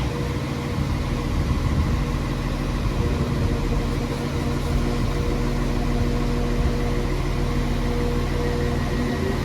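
A train standing at the platform, its engine and equipment running with a steady hum and low rumble.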